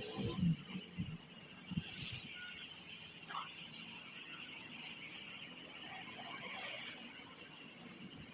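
Air spray gun hissing steadily while spraying paint.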